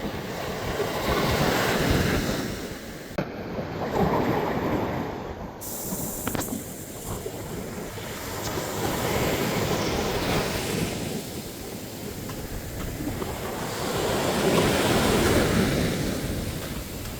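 Ocean waves breaking on a sandy beach, the surf rising and falling in slow swells every few seconds, with some wind on the microphone.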